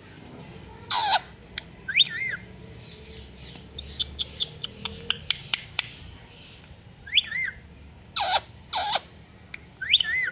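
Pet parrot calling: harsh squawks alternating with short whistled calls that rise and fall in pitch, about six calls in all. In the middle comes a run of quick sharp clicks.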